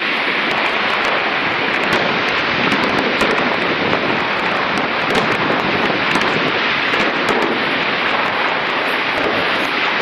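Fireworks crackling: a dense, steady crackle with many small sharp pops scattered through it.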